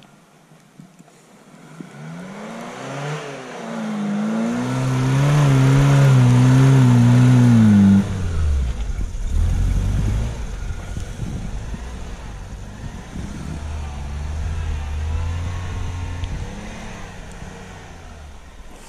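Suzuki SJ410 off-roader ploughing through deep snow: its small four-cylinder engine grows louder as it comes near, revving hard with a wavering pitch, then drops sharply about eight seconds in to a lower, rougher running note as it moves on.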